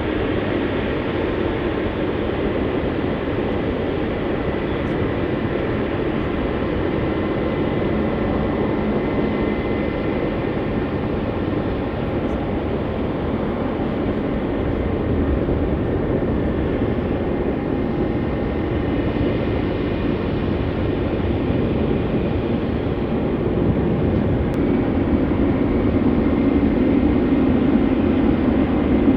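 Airliner engines running: a steady rumble with a faint high whine, swelling slightly near the end.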